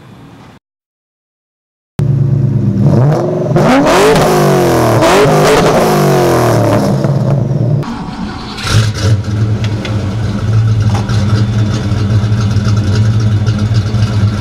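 2006 Saleen Mustang GT's 4.6-liter three-valve V8 with Ford Racing cams and a MagnaFlow exhaust, starting up loud about two seconds in and revved several times with rising and falling pitch. After a short dip near the eight-second mark it settles to a steady, loud run.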